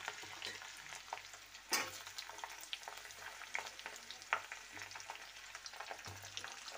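Onion chunks with ginger and garlic sizzling in hot oil in a metal kadhai, stirred with a metal slotted spoon that clicks and scrapes against the pan. A couple of sharper knocks of the spoon stand out.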